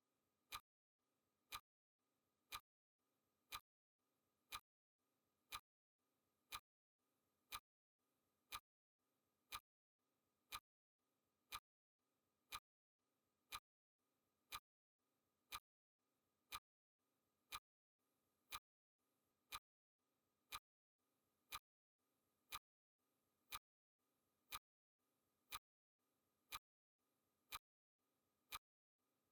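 Clock ticking sound effect: a steady, sharp tick about once a second, marking the seconds of a countdown timer.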